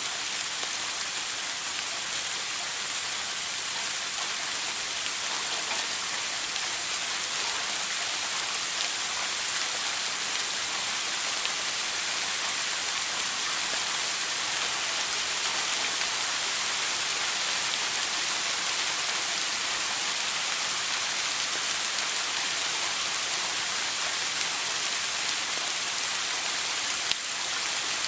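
Shower water spraying steadily: an even, unbroken hiss of falling water, strongest in the high register.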